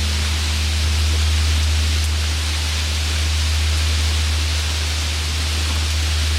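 Steady rain falling, under the deep, lingering hum of a large Korean Buddhist temple bell still resonating after being struck.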